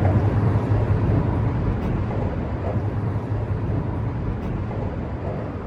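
A steady low engine rumble that slowly fades.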